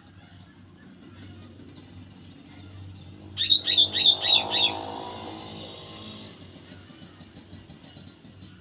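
Outdoor ambience with a low steady hum; about three and a half seconds in, a bird gives a quick run of about six loud, high chirps, while a vehicle passes with a drone that swells and fades.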